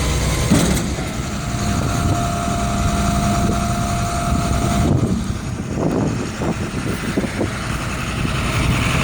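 Truck engine running steadily, with a steady whine over it for the first few seconds.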